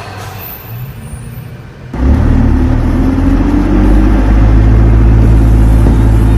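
A motor vehicle's engine running loud and steady with a low rumble. It comes in suddenly about two seconds in, after a quieter stretch of road noise.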